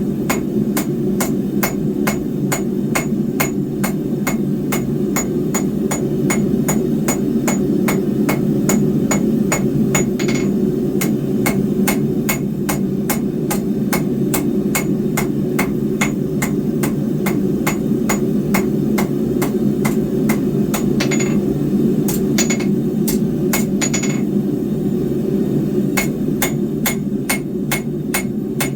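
Hand hammer striking hot square steel bar on an anvil in a steady rhythm of about two to three blows a second, each blow ringing. There are a couple of brief breaks about two-thirds of the way through, and a steady low rushing noise runs underneath.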